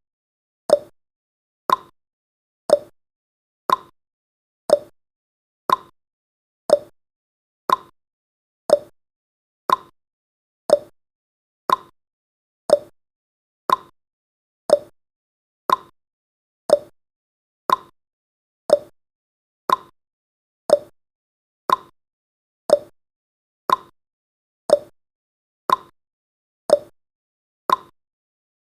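Countdown timer's ticking sound effect: short, sharp ticks, one each second, evenly spaced, each dying away quickly.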